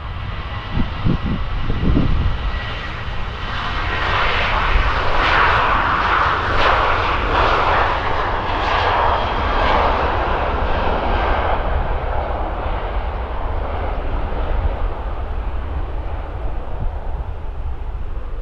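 Boeing 737-800's twin CFM56-7B jet engines at takeoff power, swelling to a peak about five to ten seconds in as the jet passes, then slowly fading away.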